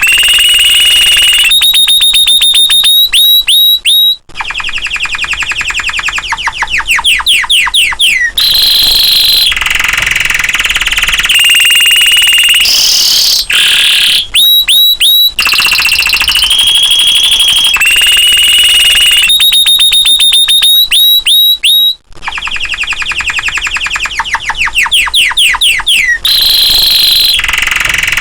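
Domestic canary in full song: fast rolling trills and rapid repeated notes, mixed with quick downward-sweeping whistles and short pauses. The same run of phrases comes round again about every 18 seconds.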